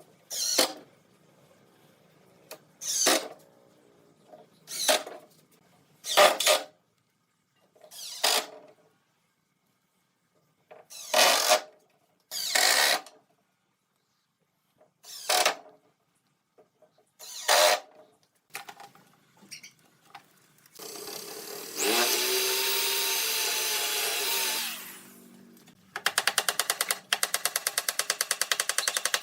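Woodworking tools at work on the table: a series of about nine separate short rasping strokes, spaced a second or two apart. Then a power tool runs steadily for about four seconds, rising in pitch as it spins up. Near the end comes a fast, even rattle of clicks.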